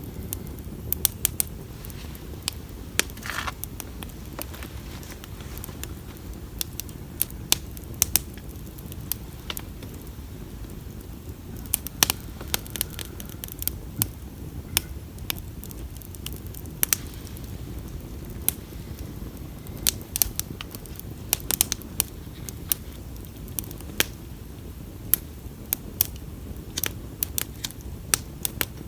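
Wood bonfire burning, with irregular sharp crackles and pops over a steady low rumble of flame, and a brief hiss about three seconds in.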